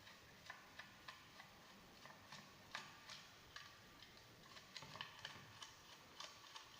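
Faint, irregular small clicks and ticks of a screwdriver turning out the screws of an electric iron's housing.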